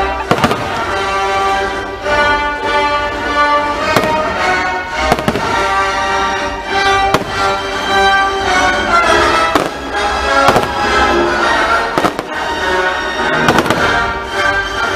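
Fireworks bursting with sharp bangs every second or two, at uneven intervals, over loud continuous show music.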